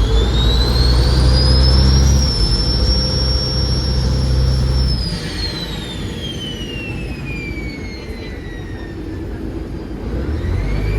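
Chao Phraya Express Boat's engine running hard, a deep rumble with a whine that rises over the first two seconds and holds. After about five seconds the rumble eases and the whine slowly falls as the engine is throttled back, then the whine starts rising again near the end.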